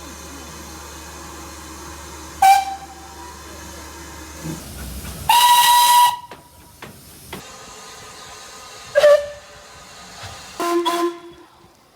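Steam locomotive whistle blasts: four short toots, each at a different pitch, the one about five seconds in the longest and loudest.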